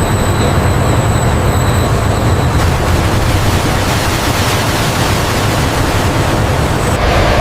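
A steady, loud low rumble with a hiss over it. Faint high whistling tones sound for about the first two seconds.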